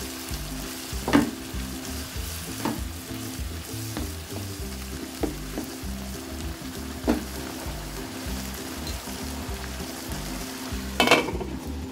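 Chickpeas and tomatoes sizzling in a non-stick pan in a little water, while a slotted spatula stirs and scrapes them. The spatula knocks against the pan every second or two, with a louder clatter near the end.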